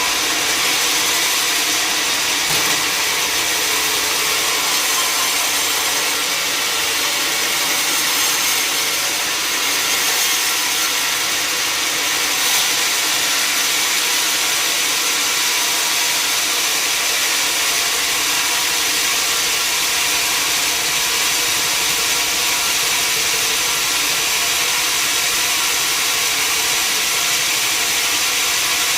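Sawmill saw cutting steadily through a log, making a continuous loud, even sawing noise with no pauses.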